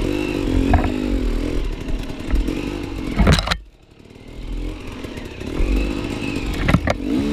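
Enduro dirt bike engine revving up and down as it is ridden over rough forest ground, with a sharp knock about three and a half seconds in. After the knock the throttle shuts off and the engine drops low, then picks up again, with a couple more knocks near the end.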